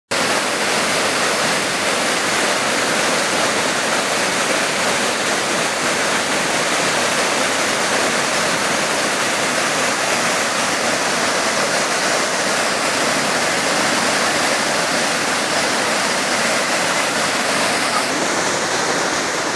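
Water rushing over a waterfall, a loud, steady, even rush.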